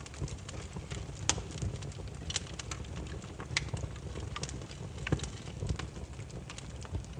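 Burning firewood crackling: irregular sharp pops and snaps, a few louder ones about a second in, near the middle and around five seconds in, over a low steady rumble of flames.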